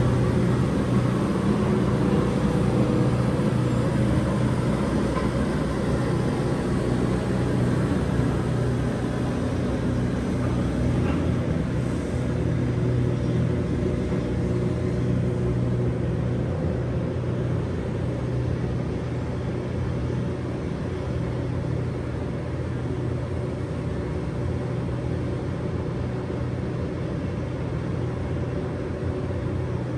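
City street traffic: a steady low engine hum over a background rumble of traffic, slowly fading.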